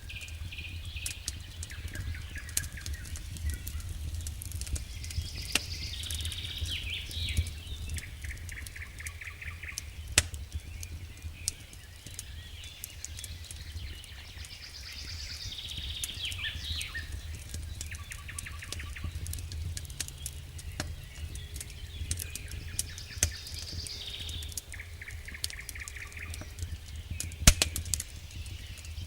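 Wood fire crackling in a fireplace: scattered sharp pops and snaps over a low steady rumble, with two louder pops about ten seconds in and near the end. Birds chirp and trill throughout, the same phrases coming back every nine seconds or so.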